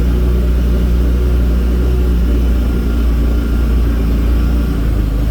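Engine of a small off-road vehicle running steadily at low speed as it drives along a trail, a constant low drone.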